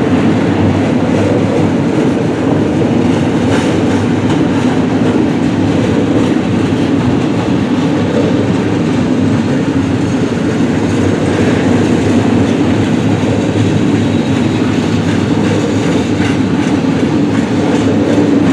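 Freight train cars rolling past, a steady loud rumble of steel wheels on the rails.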